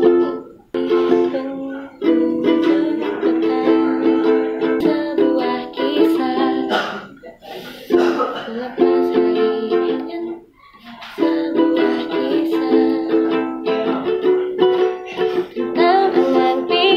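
Instrumental music: chords strummed on a small plucked stringed instrument, with brief breaks between phrases.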